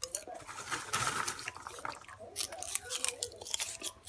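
A person chewing microwave popcorn: irregular small crunches and crisp clicks, several each second.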